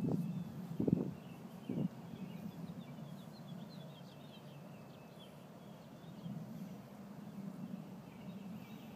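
Small birds chirping in the background over a steady low outdoor rumble, with three short muffled bumps in the first two seconds.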